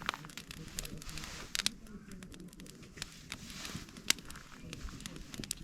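Wood campfire crackling, with irregular sharp pops and one louder pop about four seconds in.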